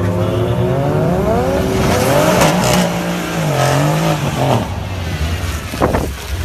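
Toyota Supra's turbocharged engine revving: the pitch climbs steeply, wavers up and down through the middle, and near the end gives one quick sharp blip before settling back to a steady low idle.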